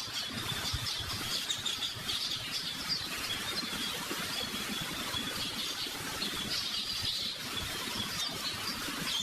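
Birds chirping continuously, a busy high twittering over a low, uneven room rumble.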